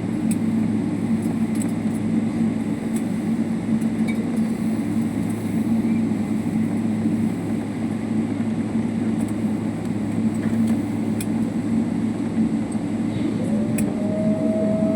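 Boeing 777 cabin noise after landing: a steady low rumble of engines and air systems, with faint clicks and rattles from the cabin. A steady tone comes in near the end.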